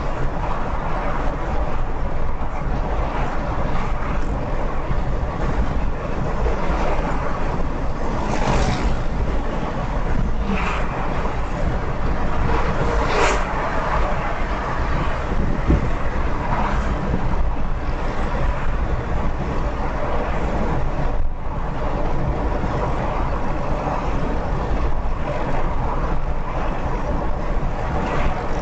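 Car driving at highway speed: steady road and wind noise, with a few brief swells partway through as other vehicles pass.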